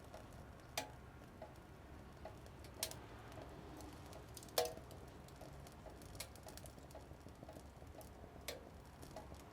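Small wood fire crackling in a mini wood stove: irregular pops and snaps, a few louder ones, over a low steady rumble.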